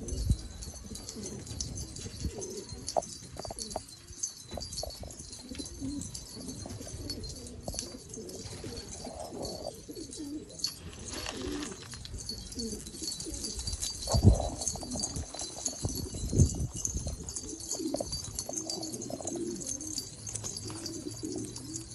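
Homing pigeons cooing over and over, with a few dull thumps (near the start and twice about two-thirds of the way through) and a steady high hiss behind.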